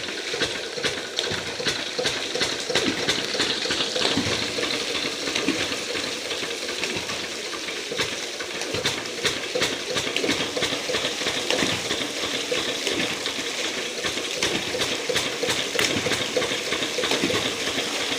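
Water churning and splashing steadily, with a dense crackle of small splashes.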